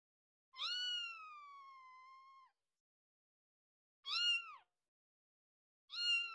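Cat meowing: one long drawn-out meow that falls in pitch and levels off, then two short meows about two seconds apart.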